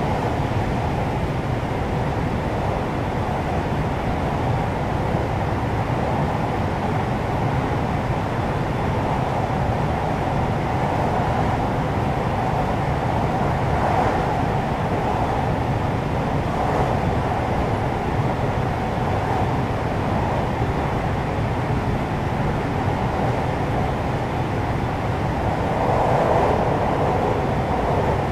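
Steady interior running noise of a JR West 521-series electric multiple unit, heard from inside motor car KuMoHa 521-34 under way: a continuous rumble of wheels on rail and the car body. It grows a little louder near the end.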